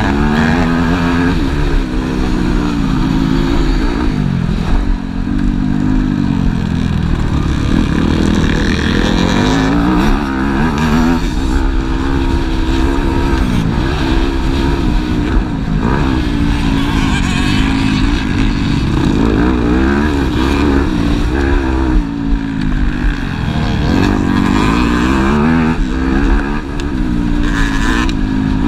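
Motocross bikes racing, their engines revving up and down again and again as they work around the track, with several bikes overlapping.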